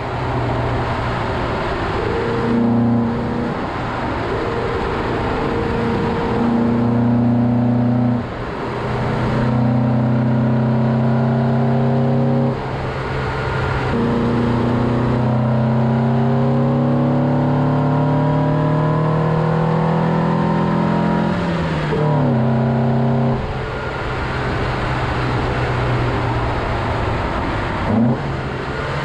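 Alfa Romeo Giulia 1300 Super's twin-cam four-cylinder engine pulling through the gears on the road, its pitch climbing steadily and dropping sharply at each gear change, four times. The longest climb runs through the middle and ends in a sudden drop about three quarters of the way in, with steady road and wind rush underneath.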